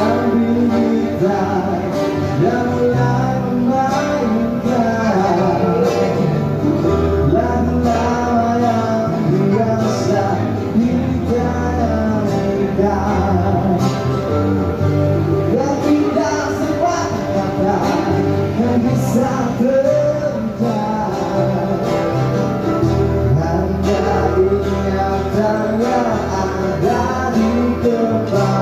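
Male voice singing a song to guitar accompaniment.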